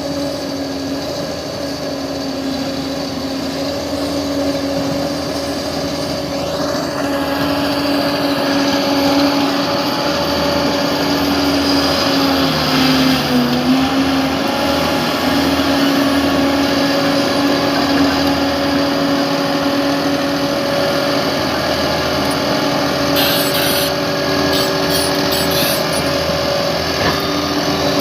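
Bulldozer diesel engine running steadily, its note sagging briefly under load a little before halfway.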